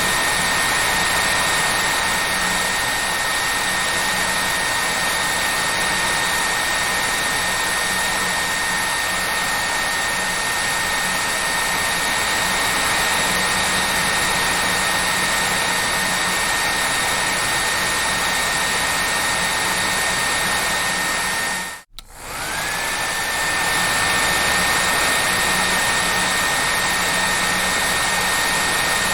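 Hair dryer running steadily: an even rush of blown air with a high, steady motor whine. About three-quarters of the way through, the sound cuts out for a moment, then comes back, and the whine climbs back up to its pitch.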